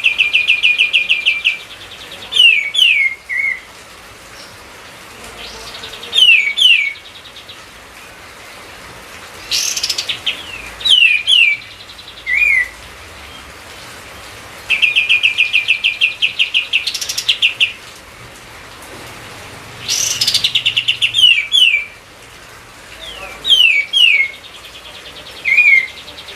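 Kapas tembak songbird singing a repeated phrase, about every five seconds: a fast rattling trill, then two or three sharp down-slurred whistles and a short lower note, over a steady background hiss.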